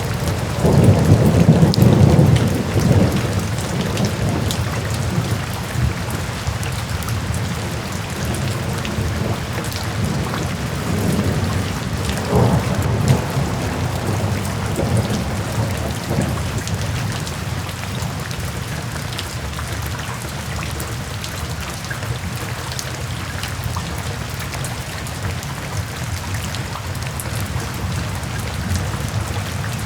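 Steady rain falling, with low rolling rumbles of thunder that are strongest in the first few seconds and again about halfway through, then ease off.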